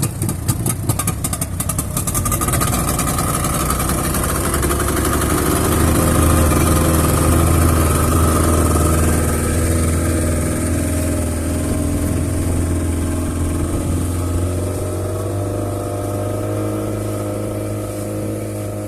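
Speedboat's outboard motor catching with a rapid clatter, then running up to a loud steady drone as the boat gets under way, over a constant hiss.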